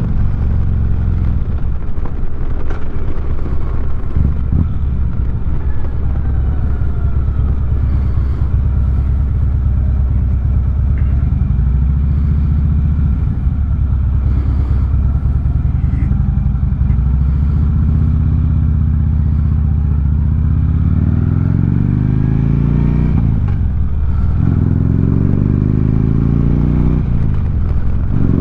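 2009 Harley-Davidson Street Glide's V-twin running through 4.5-inch Sharkroad exhaust, cruising at a steady speed. In the last several seconds it accelerates, its pitch climbing and dropping briefly twice at gear shifts.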